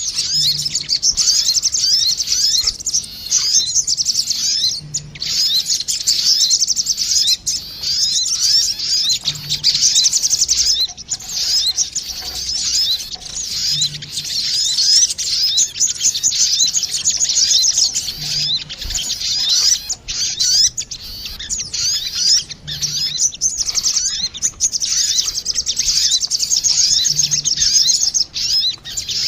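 Sogon birds, a female and a male, calling back and forth as a bird-lure (pikat) recording: a dense, unbroken stream of rapid, high twittering chirps.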